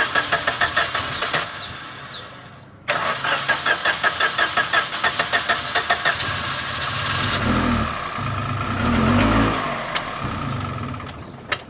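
A car engine being cranked by its electric starter, in rapid even pulses of about four to five a second, stopping and then cranking again. Around the middle the pulsing gives way to a steadier, deeper engine sound that fades near the end.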